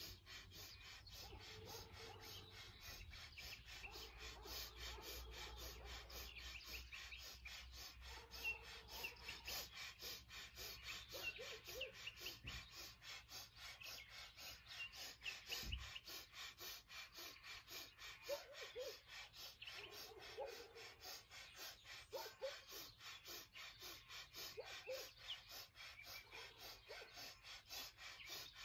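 Faint birdsong: scattered short chirps and a few lower calls over a quiet background, more frequent after the first several seconds.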